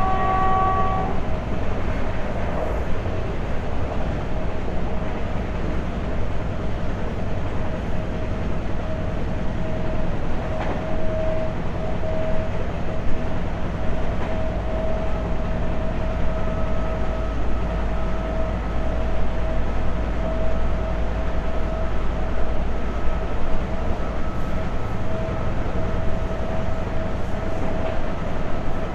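Indian Railways passenger train running at speed, heard from the open coach doorway: a steady rumble and rattle of the wheels on the track with a steady high hum. A train horn is sounding at the start and cuts off about a second in.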